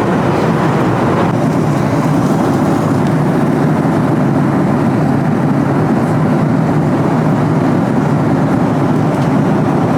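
Airliner cabin noise: the steady, even sound of the engines and the air rushing past, heard from inside the cabin.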